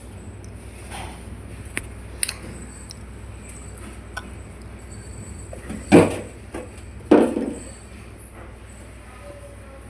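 Two loud knocks about a second apart, each ringing out briefly, with a few faint clicks over a steady low hum.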